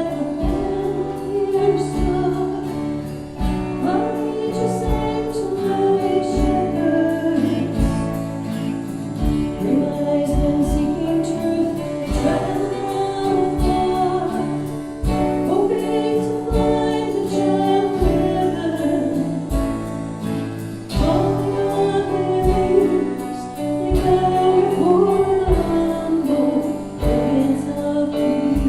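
A Christian worship song: a sung melody over instrumental backing with a steady low beat.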